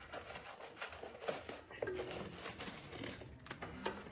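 Caked grass clippings being scraped and pulled loose from the underside of a lawnmower deck: faint crinkling and rustling with scattered light knocks.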